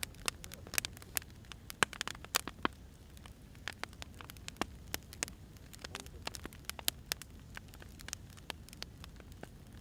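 Wood fire crackling: irregular sharp pops and snaps over a low steady hiss, thicker in the first few seconds and sparser after.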